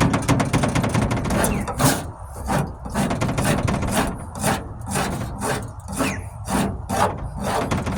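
Stanley Surform flat-blade rasp scraping down Bondo body filler in back-and-forth strokes. The rasping is fairly continuous at first, then settles into separate strokes about two a second.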